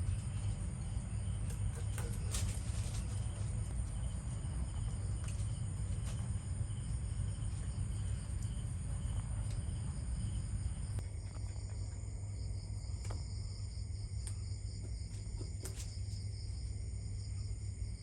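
Insects trilling steadily in high, thin tones over a constant low rumble, with a few faint clicks.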